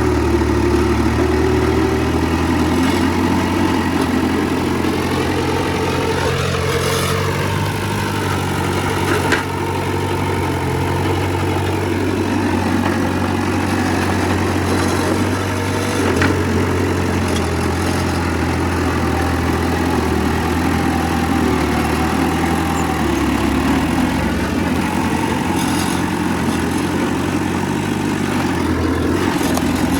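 Heavy diesel earthmoving engine running steadily at a low, even pitch, shifting up and back down once about seven seconds in. A couple of short knocks come through about nine and sixteen seconds in.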